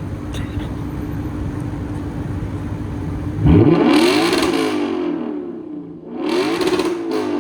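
Lexus RC F's 5.0-litre V8, with its resonator and muffler deleted for an open exhaust, idling steadily, then revved hard about halfway through and again near the end. Each rev rises sharply and falls back toward idle. The first rev is the louder.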